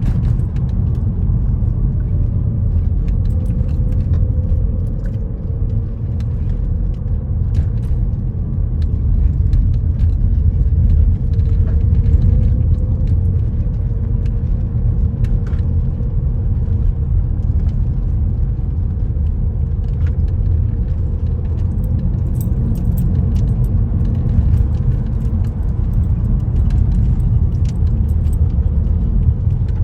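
Steady low rumble of a moving vehicle heard from inside, with light rattling and small clicks scattered throughout.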